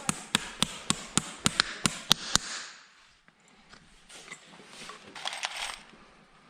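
A rapid, even run of sharp hammer taps, about three to four a second, stopping about two and a half seconds in, typical of a farrier's hammer at work on a horseshoe. Softer scraping on the hoof follows near the end.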